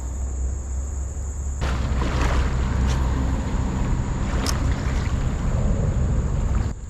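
Wind rumbling on the microphone under a steady high insect buzz. About one and a half seconds in, a rougher rushing noise joins it, with a couple of sharp clicks.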